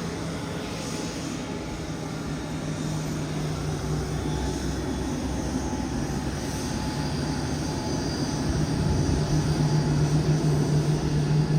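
Boeing 787-9 jet engines running with a steady hum, growing louder about eight seconds in.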